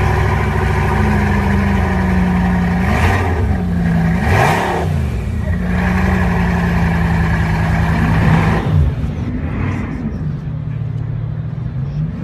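Bugatti Chiron's 8-litre W16 engine running at idle just after start-up, its revs dipping and rising briefly a few times, about three and five seconds in and again near nine seconds.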